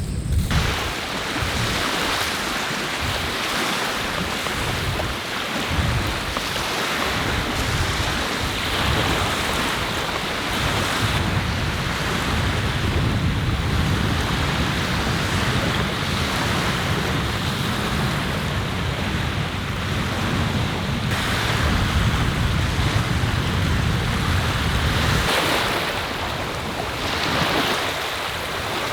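Sea waves breaking and washing ashore, swelling and easing every few seconds, with strong wind rumbling on the microphone.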